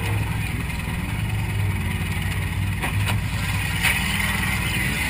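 Demolition derby car's engine running steadily, heard from inside the stripped cabin, with a few sharp metallic knocks about three and four seconds in.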